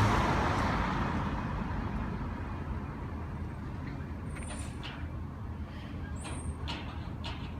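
Recycling truck's diesel engine running loud and fading over the first two seconds, then idling low, with several short clanks and a couple of brief high squeaks from about four seconds in.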